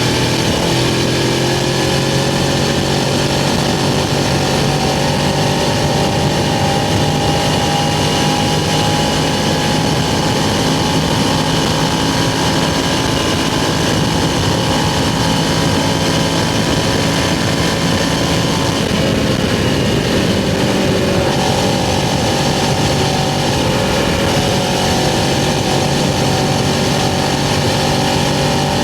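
Suzuki GS500's parallel-twin engine running steadily under way, heard from on the bike. About two-thirds of the way through the engine note briefly changes, then settles again, as with a gear change or a lift of the throttle.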